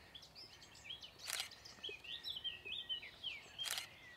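A songbird singing a lively run of quick, varied chirps and warbles, with two brief noises cutting across it about a second in and near the end.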